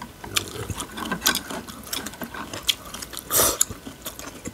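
Crunchy chewing of green mango and chicken-feet salad, a rapid run of crisp crackles, with one louder crunch a little past three seconds in.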